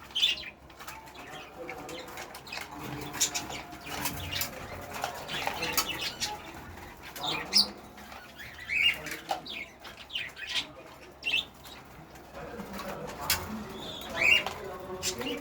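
Pigeons in a loft flapping their wings and cooing, with many short sharp wing clatters and a few high chirps from other birds.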